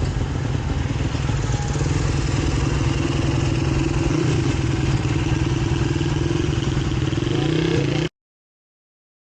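Motorcycle engine running at a steady pitch while riding, with wind and road noise. The sound cuts off abruptly to silence about eight seconds in.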